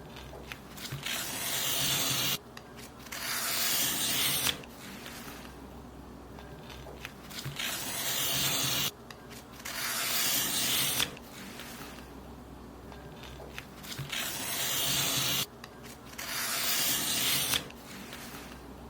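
Paper being cut in long hissing strokes: two strokes of about two seconds each, the pair coming three times at even intervals with short pauses between.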